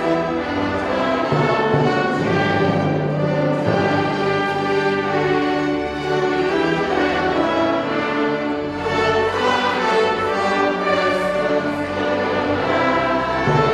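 Orchestra playing classical music, steady and full throughout.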